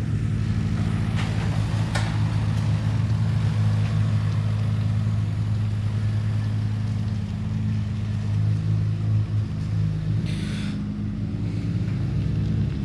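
An RB26DETT twin-turbo straight-six idling steadily with no revving. There are a few light clicks early on and a short hiss about ten seconds in.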